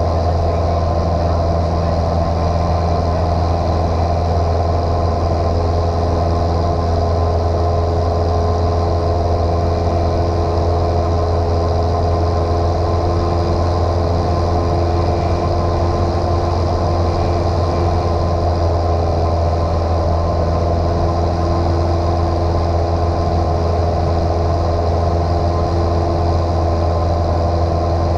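Light single-engine piston airplane's engine and propeller droning steadily in flight, heard from inside the cockpit.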